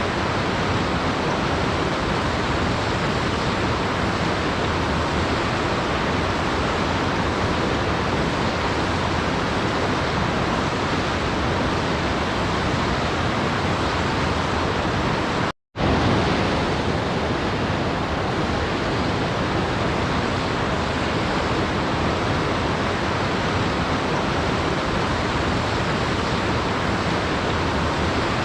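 Waterfall rushing in a steady, even roar of falling water. It cuts out to silence for a split second a little past halfway, then carries on unchanged.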